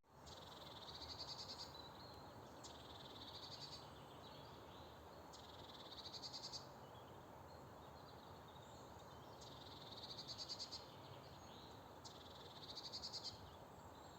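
Faint high, rapidly pulsed trills from a small calling animal, each about a second long, repeating five times a few seconds apart over quiet background hiss.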